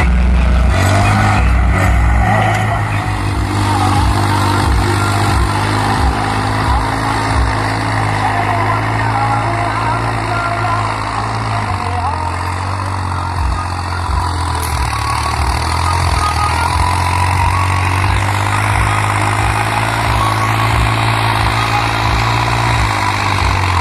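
New Holland 3630 tractor's diesel engine running steadily under load, pulling a cultivator. The engine note dips about halfway through and picks back up toward the end.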